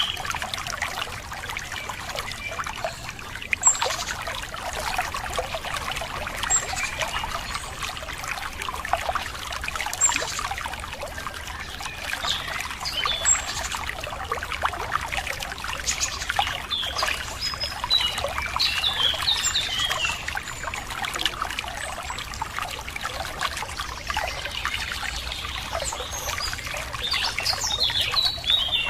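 Running water trickling and splashing steadily, with small birds chirping now and then, more often in the middle and near the end.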